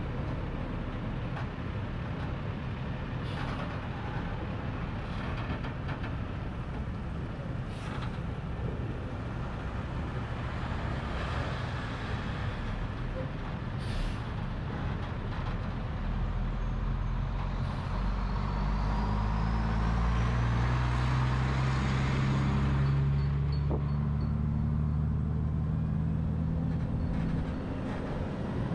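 Road and wind noise from a moving truck, heard through a camera mounted on its roof, with a few knocks from bumps. About halfway through, a heavy vehicle's engine drone builds up and holds steady, then drops away near the end.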